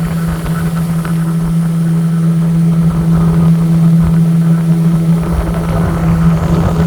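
Express passenger boat's engine running at a steady pitch: a loud, even drone over a low rumble.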